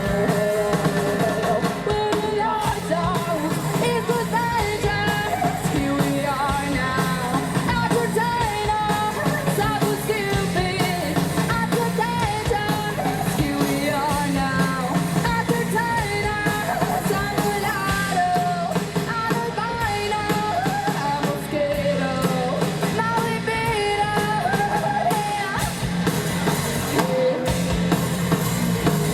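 Live rock band playing with a lead vocalist singing over electric guitar, bass and drums.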